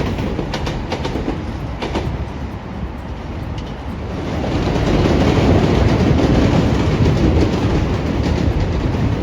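Train passing on the rails: a few sharp clicks in the first two seconds, then the running noise swells about four seconds in and holds loud.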